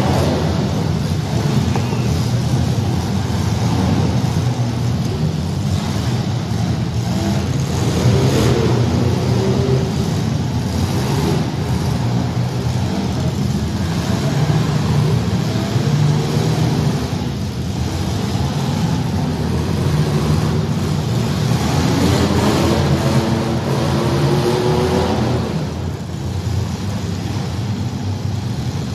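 Engines of several compact demolition derby cars running hard together, their pitch rising and falling as they rev and labour.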